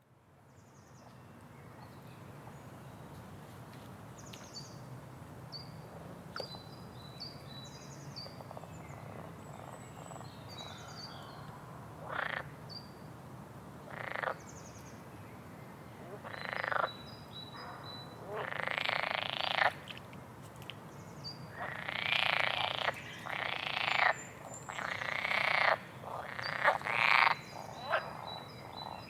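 Frogs croaking in loud bursts, first now and then and more and more often in the second half, with small birds chirping high and thin throughout. The sound fades in over the first couple of seconds.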